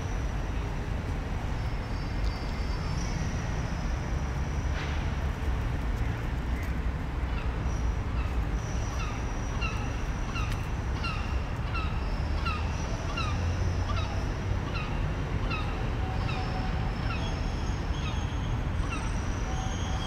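A bird gives a long series of short, evenly spaced calls, about two a second, through the middle of the clip, over a steady low rumble of city traffic.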